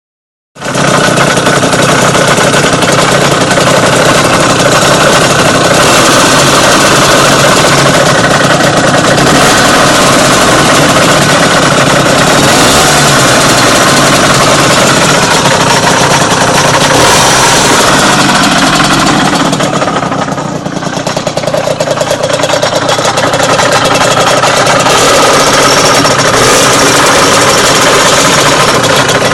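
Engine running close to the microphone, loud and steady, with an unusual noise in it that the owner calls strange; it briefly drops in level about twenty seconds in, then comes back.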